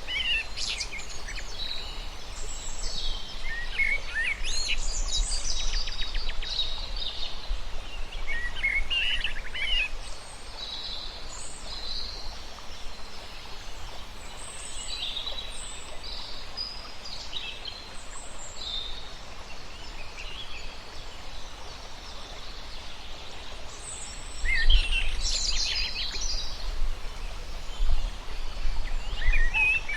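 Several wild birds calling and singing, with overlapping chirps, trills and whistles that come in clusters, busiest at the start and again near the end, over a steady low rumble.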